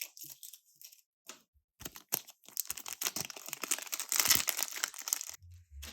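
Plastic packaging crinkling and rustling as a set of clear plastic pocket envelopes is handled, in irregular scratchy bursts that come thickest from about two seconds in. A brief low hum sounds near the end.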